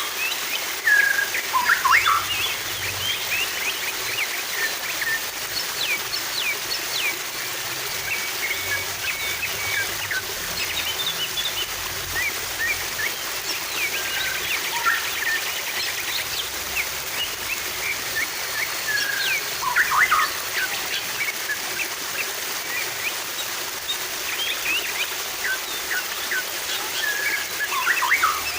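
Steady rush of flowing water with many songbirds chirping and twittering over it in short, quick phrases, a louder flurry of calls at the start and again about two-thirds through.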